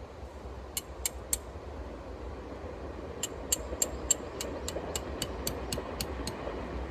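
Metal tent pegs struck with a hammer, each blow ringing sharply: three blows, then a quick run of about a dozen at roughly four a second. Steady rain runs underneath.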